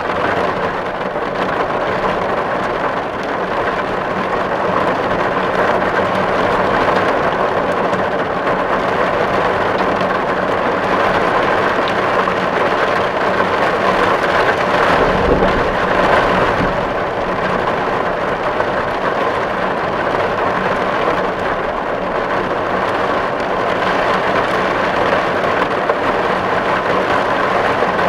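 Steady rain falling on a tin roof, a dense even patter on the metal, with a brief low rumble about halfway through.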